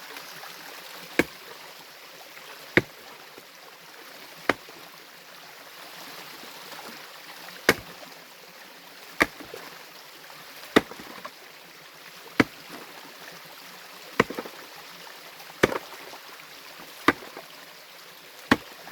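A metal tool striking stream bedrock hard, one sharp blow roughly every second and a half, chipping away the rock over the steady rush of a stream.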